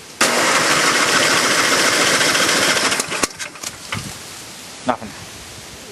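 Electric starter cranking the 10 hp John Deere snowblower's engine steadily for about three seconds without it firing, then cutting off, followed by a few sharp clicks. The engine won't catch, which the owner puts down to it not getting gas.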